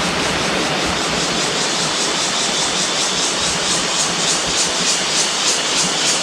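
Steady rush of a waterfall, with a chorus of insects pulsing high above it, about three to four pulses a second.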